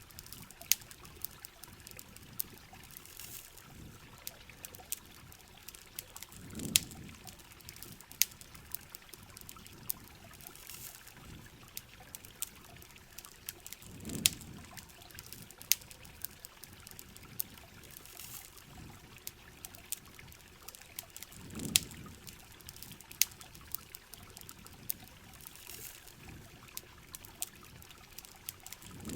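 Heavy rain falling steadily, mixed with campfire crackling: many sharp pops and clicks scattered throughout. A soft low swell comes back about every seven and a half seconds.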